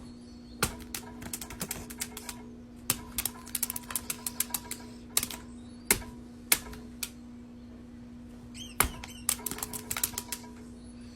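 Irregular sharp clicks and taps, coming in quick clusters, over a steady low hum, with a brief high squeak about three-quarters of the way through.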